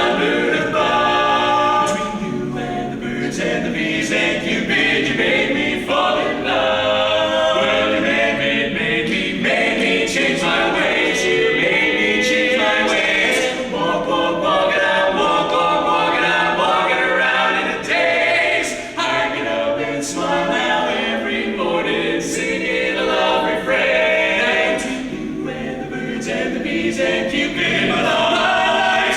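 Barbershop quartet singing a cappella in close four-part harmony.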